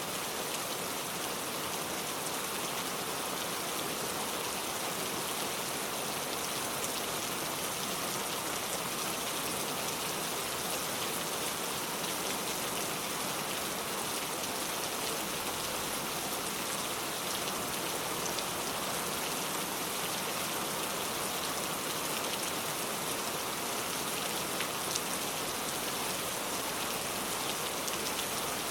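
Steady rain falling: an even hiss with individual drops ticking through it now and then.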